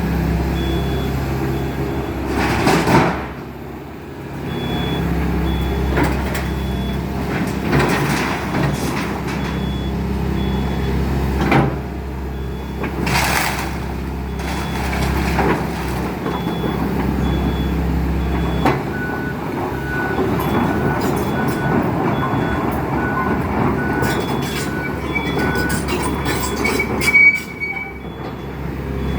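Excavator's diesel engine running while it tears down a house, with crashes and crunching of debris, the loudest about three seconds in, again around thirteen seconds, and near the end. A high warning beep repeats on and off throughout.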